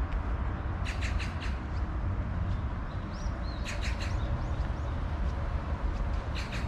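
Small birds calling: a quick run of three or four sharp notes about a second in, a cluster of sharp notes with short curved chirps around three to four seconds, and another burst near the end, over a steady low rumble.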